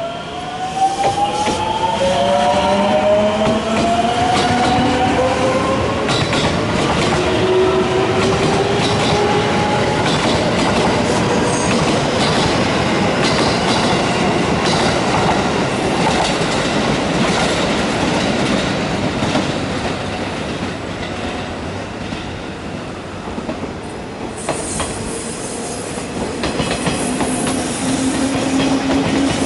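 Electric commuter train accelerating out of the station and passing close by. Its motor whine rises in pitch over the first several seconds, followed by a steady rumble and clatter of wheels over the rails as the cars go past. Near the end another train's motor hum starts rising.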